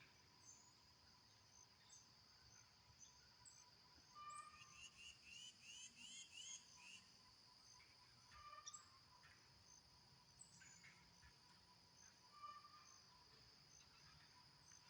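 Faint natural ambience: a steady high insect drone, like crickets, with a songbird singing a quick run of repeated notes about four seconds in and a few separate chirps later.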